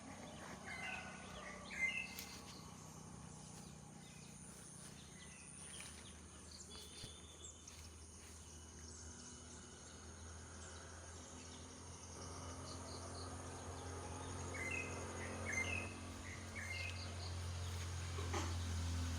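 Short, high chirping animal calls in two clusters, one near the start and one about 15 seconds in, over a faint steady high insect-like tone and a low hum that grows louder in the second half.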